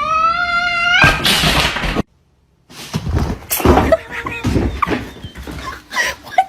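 A cat's long yowl rising in pitch, broken off about a second in by a loud harsh noisy burst. After a short silence come scattered knocks and rustling with a few brief squeaky calls.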